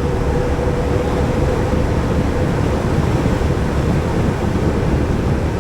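Wind rushing over the microphone of an action camera on a moving Yamaha Majesty scooter, a steady low rumble with the road and engine hum beneath it. A faint steady tone fades out about halfway through.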